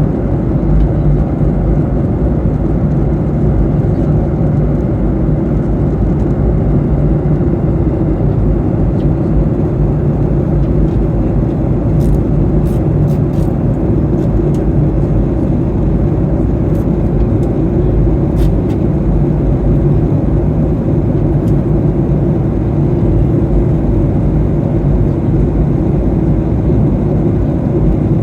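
Steady cabin noise of a Boeing 737-800 airliner in flight: a constant drone and rush of the engines and airflow. A few faint ticks come through around the middle.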